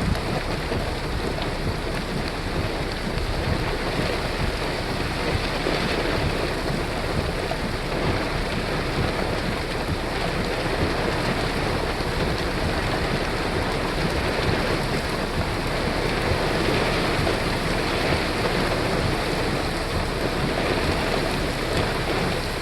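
Heavy rain from a severe thunderstorm falling steadily, mixed with strong gusty wind buffeting the microphone.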